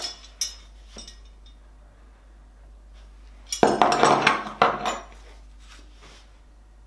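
A bunch of metal keys jingling and clinking as they are handled: a couple of short clinks early, then a longer spell of jingling about three and a half seconds in.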